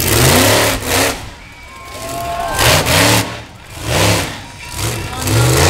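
Monster truck engine revving hard in repeated bursts, the loud engine note rising and falling about every second and a half.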